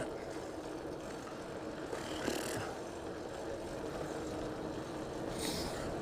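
Steady road and wind noise while riding a fixed-gear bicycle, with two brief hisses about two seconds in and again near the end.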